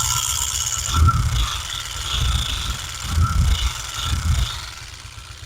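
Honda Pridor's 100 cc single-cylinder four-stroke engine running with a loud mechanical rattle that swells in several surges and eases off near the end. The rattle comes from loose plates inside the magneto flywheel, not the worn timing chain that other mechanics blamed.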